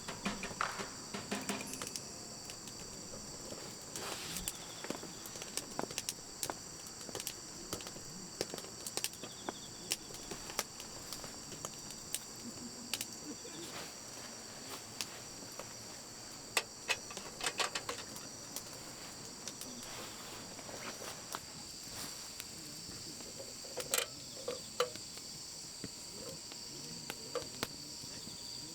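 Bell crickets (suzumushi) chirping steadily in high-pitched continuous trilling, with scattered crackles and pops from a wood campfire.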